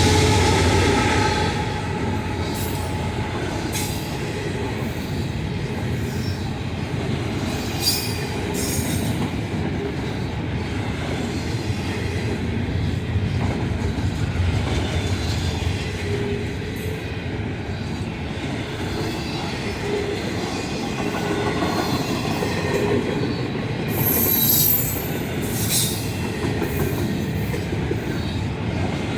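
Intermodal freight train rolling past: a steady rumble of cars with wheel clatter and an occasional high wheel squeal, loudest about 24 seconds in. The locomotive's horn trails off in the first second or so.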